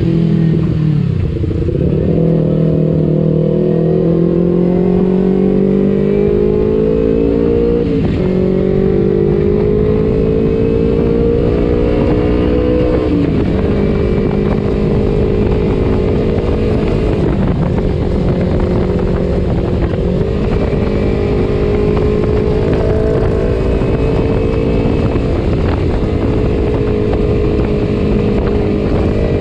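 Kawasaki Ninja 250 FI parallel-twin engine through an aftermarket R9 H2 exhaust, under way. Its pitch climbs through the gears with a sharp dip at each upshift, three times in the first half, then holds at steadier revs with a few short dips.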